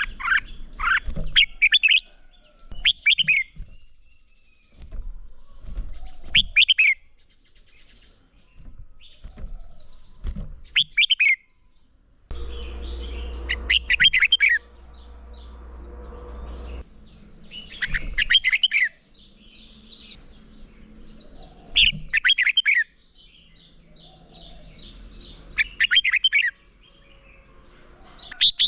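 Red-whiskered bulbul (chào mào) singing short, loud whistled song phrases about every three to four seconds, with fainter high chirps in between. This is the competitive 'fighting' song that keepers play to stir up their birds. A low hum joins for a few seconds in the middle.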